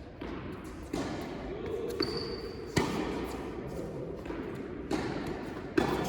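Tennis rally on an indoor court: five sharp knocks of racket strikes and ball bounces, roughly one a second, echoing in the hall.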